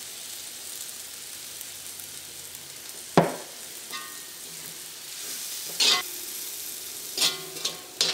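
Tomato-onion masala sizzling steadily in oil in a heavy black wok. There is one sharp knock about three seconds in. From about six seconds a metal spatula scrapes and stirs in the pan in several strokes.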